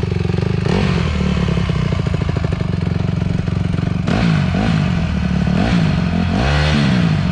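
Dirt bike engine running just after a hot start, with the throttle blipped twice, about midway and near the end, so the engine note rises and falls.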